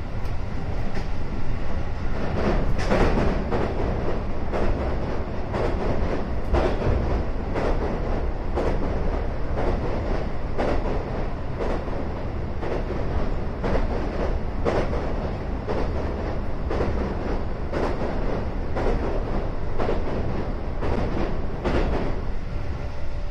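Inside a JR West 221 series electric train running fast over a bridge: a steady rumble of wheels on rail, broken by regular clacks about one or two a second as the wheels pass over rail joints.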